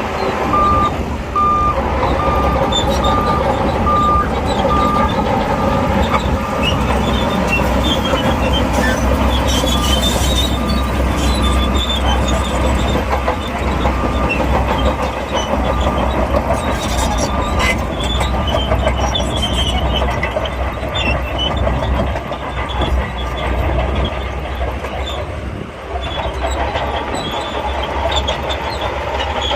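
Shantui crawler bulldozer working under load: diesel engine running steadily with the clanking and squeal of its steel tracks. A reversing alarm beeps at an even pace through about the first half, then fades out.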